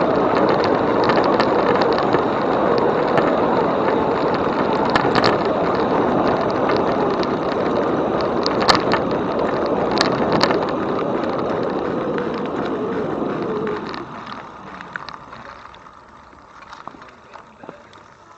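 Steady rushing noise of a bicycle ride, tyres on the path and wind on the microphone, with scattered sharp clicks and rattles from the bike. It drops away sharply about fourteen seconds in, leaving quieter occasional ticking.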